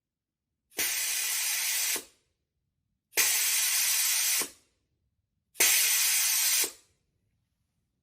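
Compressed air venting through a pneumatic exhaust in three short blasts of hiss, each just over a second long and cut off sharply, a couple of seconds apart.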